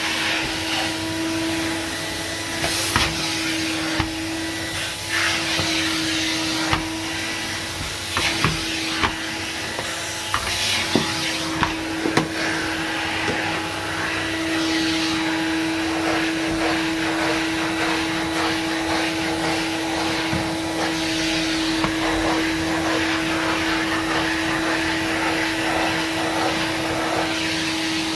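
Numatic NV250 vacuum cleaner running steadily with a constant motor hum and rush of air, while vacuuming. Several sharp clicks and knocks come in the first half, then the sound runs smoother.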